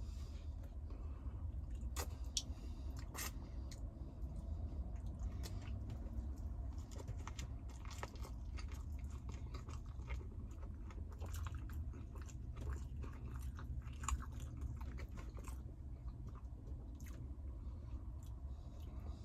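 A person chewing and biting food close to the microphone, with irregular small crunches and mouth clicks over a steady low hum.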